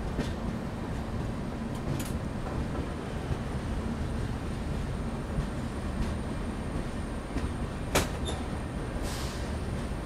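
Passenger express train running on the track, a steady rumble of coach wheels on rails with a few sharp clicks, the loudest about eight seconds in.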